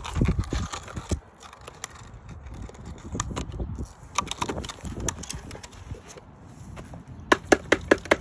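Handling noises as a bird feeder is taken down: low bumps and rustling at first, scattered knocks, then a quick run of sharp clicks near the end.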